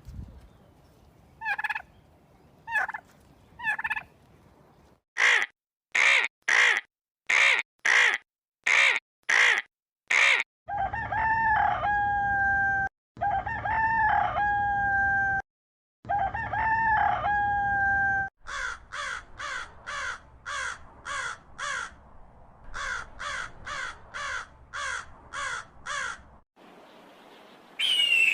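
A rooster crowing three times, each crow a long call held on one steady pitch. Before the crows come spaced series of short fowl calls; after them, two runs of quick short calls.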